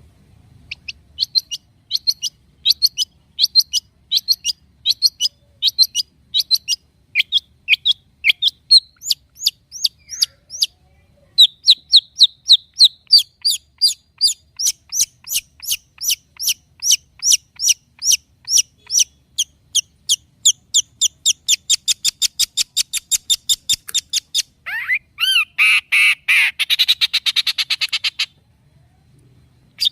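Long-tailed shrike (cendet) singing: a long run of sharp, high, repeated chirps that speed up into a fast trill, ending in a harsher, lower chattering burst before it stops near the end.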